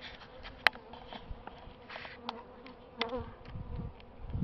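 Honeybees humming steadily in an open hive, a strong, populous colony. A few sharp clicks and knocks come over the hum, the loudest about two-thirds of a second in.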